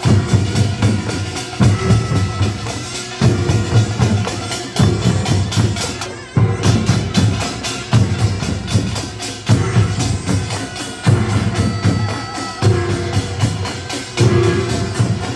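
Korean nongak (pungmul) percussion band playing: drums and small hand gongs beaten together in a fast, dense rhythm that repeats in a cycle of about one and a half seconds.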